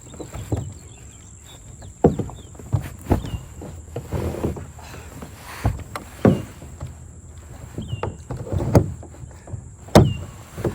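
Pelican Challenger 100 kayak being launched and paddled: irregular knocks and splashes of the paddle and hull, roughly one every second or so.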